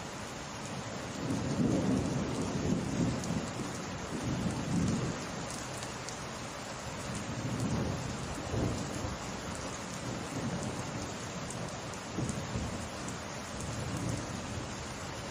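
Steady rain with thunder rumbling low several times: a long roll in the first few seconds, another around the middle, and more near the end.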